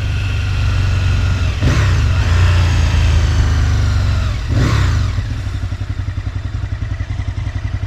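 Aprilia RSV Mille's 60-degree V-twin engine running steadily, then dropping to a lumpy, evenly pulsing idle about five seconds in. Two brief whooshes, most likely passing traffic, sweep by before that.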